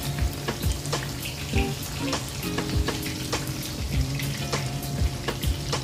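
Tofu blocks shallow-frying in hot oil in a pan, with a steady sizzle and many small crackles and pops. Background music with sustained low notes plays underneath.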